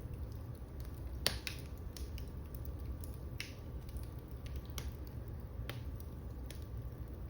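Wood fire burning in a fireplace: irregular sharp crackles and pops over a low steady rumble, the loudest pop about a second in.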